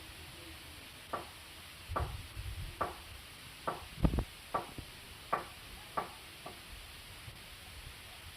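A series of about nine short, sharp splashes at irregular intervals, with dull thuds around two and four seconds in, the loudest near four seconds; typical of a fish or line disturbing the canal surface during hook fishing.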